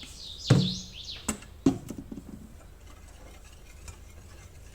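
A few sharp knocks and clicks of kitchen utensils, the loudest about half a second in, with two more over the next second and faint ticks after. A bird chirps briefly at the start.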